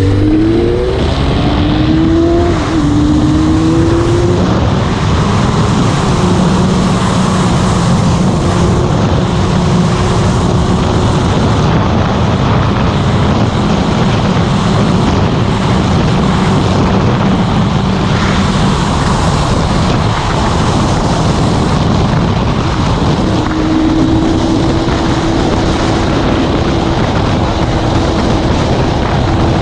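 Motorcycle engine pulling up through the gears, its pitch climbing in short steps over the first few seconds, then running at a steady cruising speed under a heavy rush of wind and road noise.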